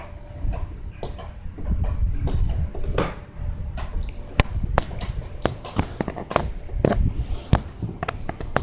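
Irregular knocks, clicks and scrapes of the recording phone bumping against the window and being handled as it is pulled back in on its cord, over a steady low rumble.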